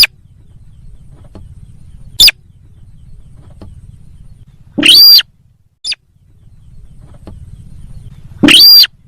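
Lure-call recording of the sintar sawah bird played loud: harsh, distorted calls at irregular intervals, two short ones at the start and about two seconds in, and two longer ones about five seconds in and near the end, over a low background hum.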